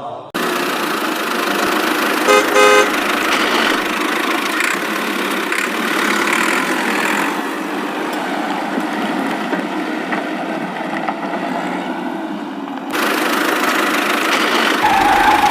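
Steady vehicle-like running noise with a short horn honk about two and a half seconds in; the sound changes near the end.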